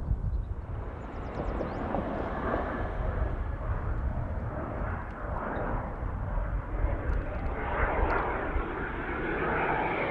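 Jet aircraft engine noise, a continuous deep rumble that grows louder near the end.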